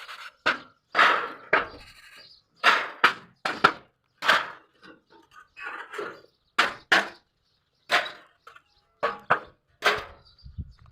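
A series of sharp whacks or chopping blows, a dozen or so at irregular intervals of about a second, some coming in quick pairs.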